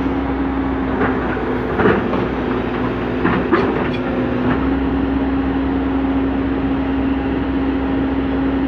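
Komatsu PC200CE excavator's diesel engine running steadily under load, with several metallic clanks and scrapes in the first few seconds.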